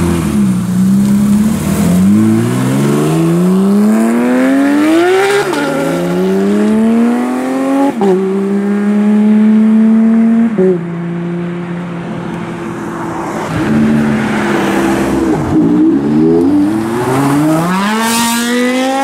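Porsche sports cars accelerating away one after another, their engines revving up in pitch through the gears. Gear changes drop the pitch about five and eight seconds in, and another hard run-up comes near the end.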